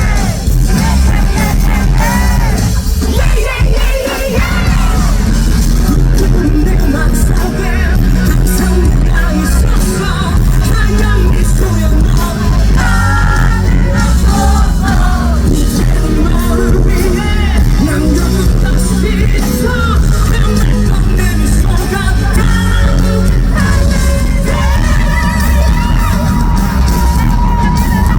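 Rock band playing live at full volume, with heavy drums and bass under bending, wailing high notes and a long held note near the end, and crowd yelling and whooping.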